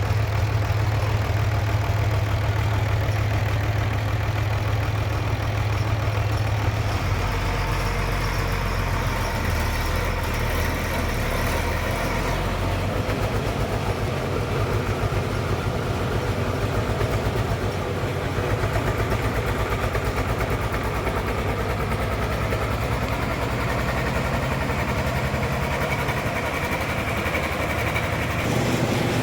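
Sawmill engine running steadily with a low, even pulse. Its note shifts about 7 seconds in, again a few seconds later, and once more near the end.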